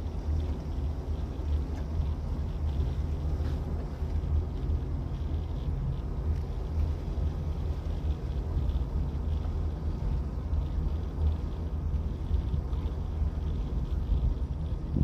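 A 30 ft boat's engine running steadily underway, a continuous low drone.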